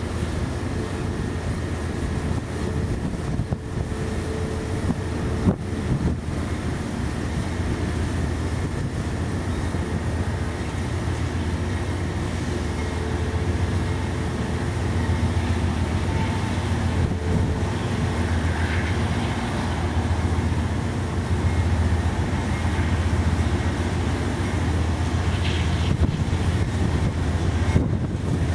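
Diesel-electric locomotives at the head of a CSX freight train, led by a GE AC4400CW, running as they slowly approach, a steady engine drone and rumble that grows a little louder about halfway through.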